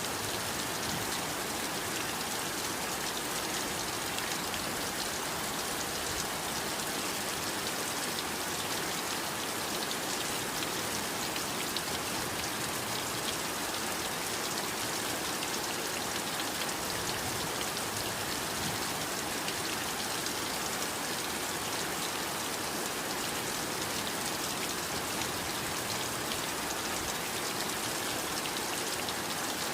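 Steady heavy rain, a dense hiss of countless drops hitting a surface, with no change in intensity.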